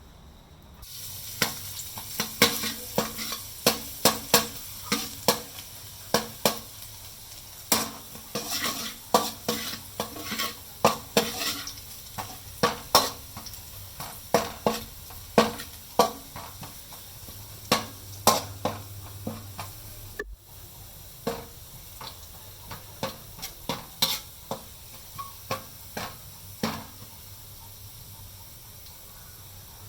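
Food sizzling in hot oil in a pan while a utensil stirs and scrapes it, giving many sharp clinks against the pan over the steady sizzle. The sizzle drops out for a moment about two-thirds of the way through, and the clinks stop near the end.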